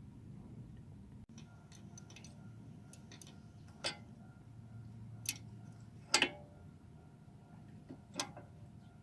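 Scattered sharp metallic clicks and clinks of tools and engine parts being handled during engine assembly, about four stronger ones among lighter ticks, the loudest a clink with a short ring a little past the middle.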